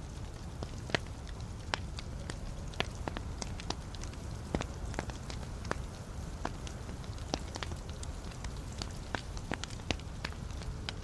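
Wood fire in a fireplace crackling: irregular sharp pops and snaps, several a second, over the low steady rumble of the burning logs.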